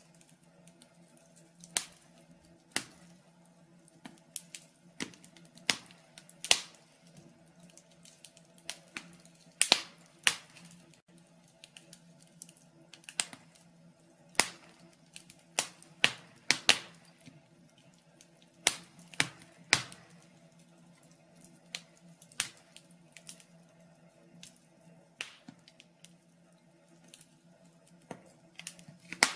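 Wood fire in a fireplace crackling: irregular sharp pops and snaps, one to a few every couple of seconds, over a faint steady low hum.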